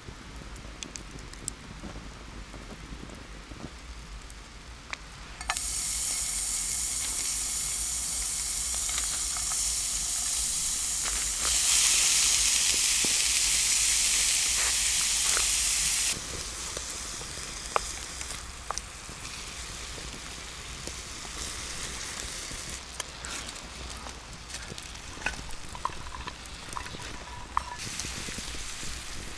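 Food sizzling in hot oil in a pan over a campfire. The sizzle starts suddenly about five seconds in, grows louder a few seconds later, then drops back sharply to a quieter sizzle with scattered crackles.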